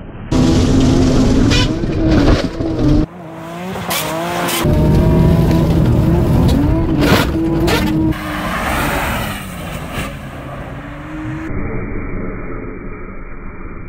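Drift cars' engines, Toyota Supras among them, revving hard up and down over the hiss of spinning tyres on ice, with a few sharp knocks. The sound changes abruptly several times.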